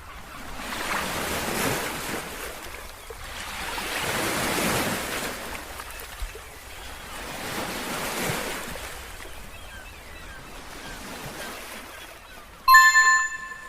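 Surf washing in, one wave swell about every three to four seconds. Near the end a short, bright chime rings for about a second.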